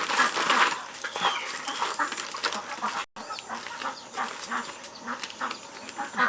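Domestic animals calling in a run of short, repeated calls, several a second. The sound drops out for a moment about three seconds in.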